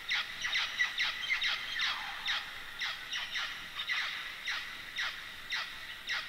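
Mealy parrots calling: a rapid series of short squawks that slide downward in pitch, several a second, echoing off the walls of a sinkhole.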